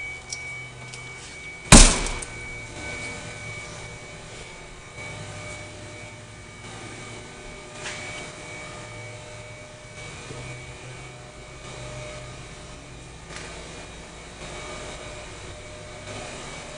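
A single loud thunk about two seconds in, typical of a car door being shut, followed by a steady low hum.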